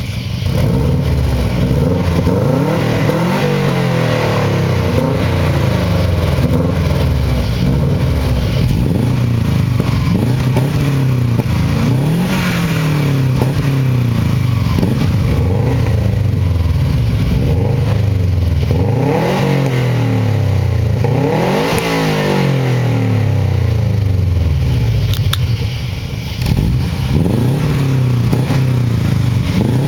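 Subaru Impreza flat-four engines revving through aftermarket cat-back exhausts (Borla, Autospeed, OBX), some with gutted catalytic converters. The revs rise and fall again and again, with more than one engine heard at once, their pitches crossing.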